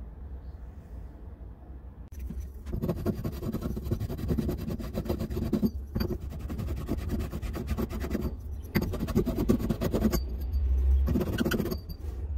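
Pipe ends being reamed and cleaned for press fittings: rapid scraping of the tool against the pipe, starting about two seconds in and going in spells of a few seconds with short breaks.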